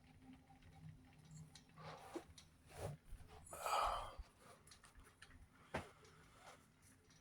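USB mini ceiling fan running with a faint steady hum. Scattered light clicks come from the hook it hangs on as it wobbles. A short breathy rush is heard about halfway through.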